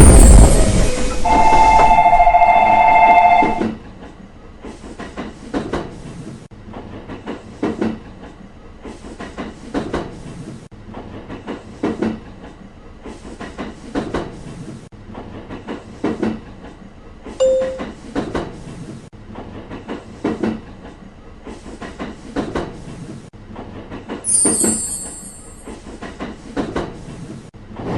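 A train sounds a steady two-tone horn for about two seconds near the start. Its wheels then clatter over the rail joints in a regular double knock about every two seconds as the cars roll past, with a brief high squeal near the end.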